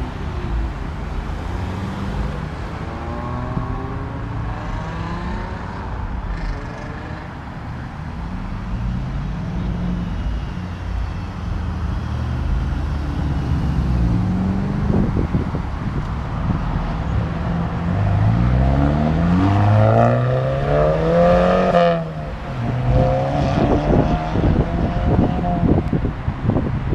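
Car engines accelerating hard as cars pull away, revving up and shifting through the gears several times in a row. The loudest run builds over the last third and cuts off sharply at a shift.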